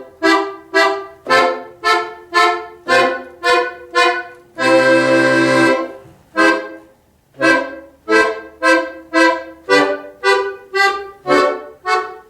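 Accordion playing a simple étude in C major in short, detached staccato chords, about two a second, with one long held chord about five seconds in before the short notes resume.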